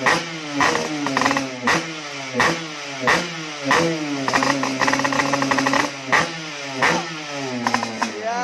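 Yamaha RX King two-stroke single-cylinder engine revved through an aftermarket Cobra exhaust, the throttle blipped over and over about every two-thirds of a second, each rev dropping straight back. About halfway through, the revs are held up for a second or so before the blipping resumes.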